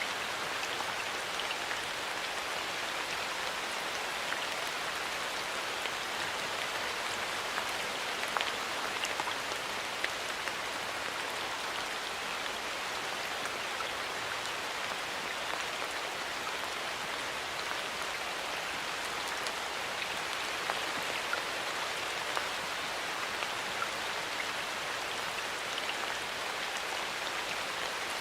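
Steady rain falling in a forest, a constant hiss with scattered individual drops ticking on leaves and surfaces.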